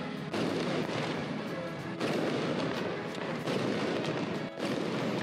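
Strings of firecrackers going off in a dense, rapid crackle that breaks off briefly a few times and starts again.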